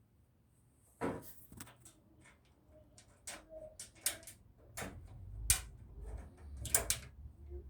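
Clicks and knocks of a computer case's plastic covers being handled and snapped shut: a string of sharp clicks, the loudest about five and a half seconds in, then a quick double click near seven seconds.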